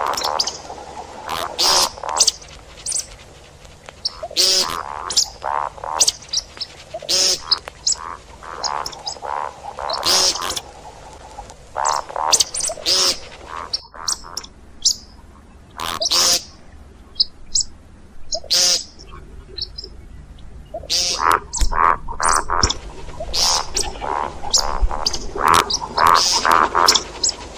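Calls of the game bird known in Arabic as shikb ('ground chicken'), a bird call used to lure birds when hunting. Short calls repeat in dense clusters, with a sparser stretch past the middle.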